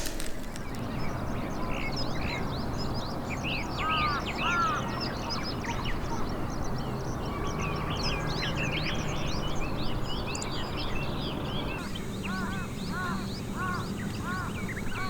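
Wild birds calling outdoors: many small birds chirping and twittering throughout. From about three-quarters of the way in, a larger bird repeats a harsh call about twice a second over a steady low background hum.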